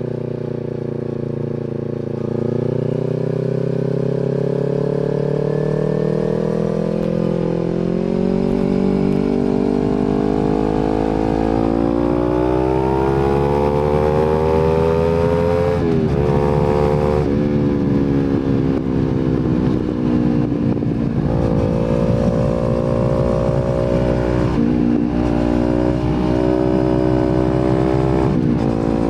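Kawasaki Z250 parallel-twin engine running through an aftermarket slip-on exhaust, its pitch climbing slowly and steadily for about sixteen seconds under acceleration. It breaks off briefly at a gear change, then climbs again and holds a fairly steady pitch, with small throttle changes.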